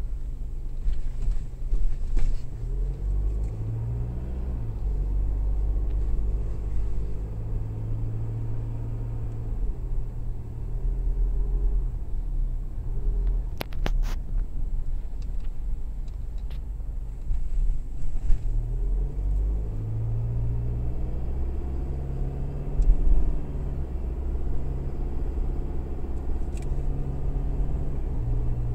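Car engine and road noise heard from inside the cabin while driving, with the engine note rising and falling several times as it speeds up and eases off. The car shares its engine with a pickup truck and sounds like one. A few sharp clicks come about halfway through.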